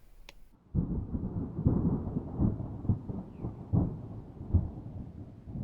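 Thunder rumbling, deep and muffled, starting abruptly about half a second in and swelling in a series of cracks.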